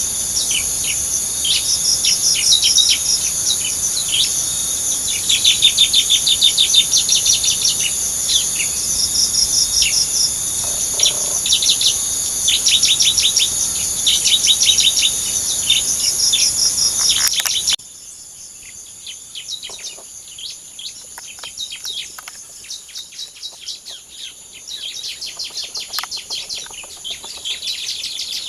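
Small songbirds chirping and trilling rapidly over a steady high-pitched insect drone. The whole sound drops abruptly in level a little past halfway, and fainter chirping continues after that.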